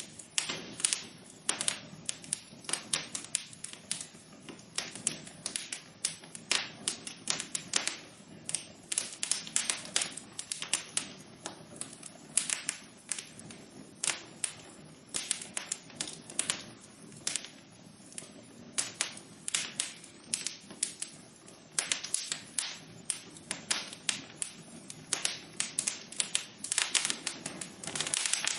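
Wood fire burning in a fireplace, crackling and popping in irregular sharp snaps over a low steady hiss.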